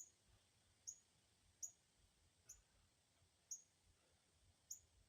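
Faint short high-pitched chirps, each dipping slightly in pitch, repeated about once a second.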